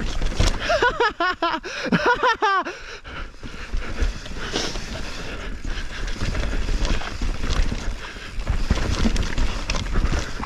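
Mountain bike riding fast down a rough dirt trail: wind rushing over the microphone with tyre and frame rattle over bumps and roots. Between about one and three seconds in there is a short wavering, voice-like cry.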